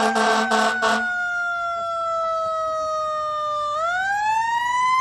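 Fire truck siren wailing: one long tone that falls slowly in pitch, then sweeps back up nearly four seconds in. In the first second there are about four quick, loud horn blasts.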